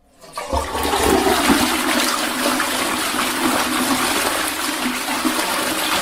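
Water rushing and gurgling, building up within the first second with a low surge and then running on steadily.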